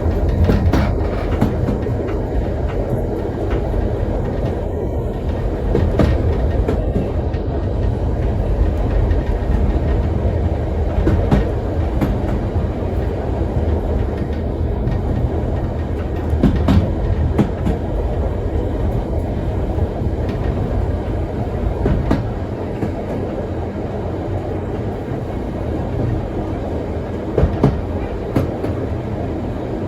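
Heritage steam train carriages running along the track: a steady low rumble of wheels on rail, with scattered clicks and knocks from the rail joints.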